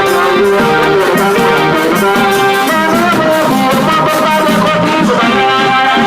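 Thai trae wong brass band playing a melody on brass horns with percussion, some notes bending in pitch.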